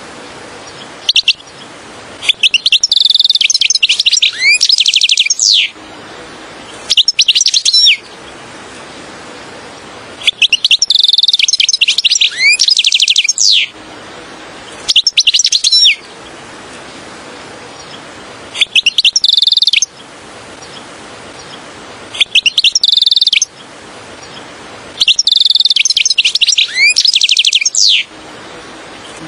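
European goldfinch singing in bursts of rapid twittering with quick gliding notes, each burst a few seconds long, separated by pauses of a second or two with a faint hiss between.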